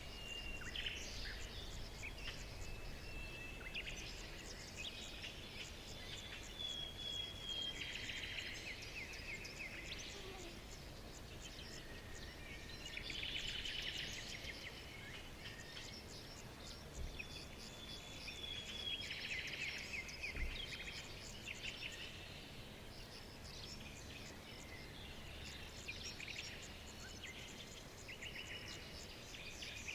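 Several birds chirping and trilling, with short whistles gliding down in pitch, over insects chirping and a steady low rumble.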